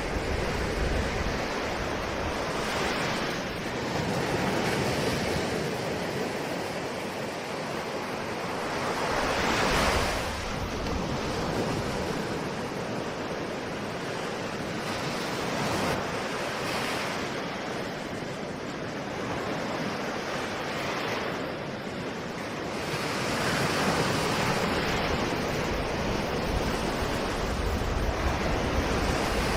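Ocean waves breaking and washing on the shore, a steady rush that swells with each surge, the strongest about a third of the way in and again near the end.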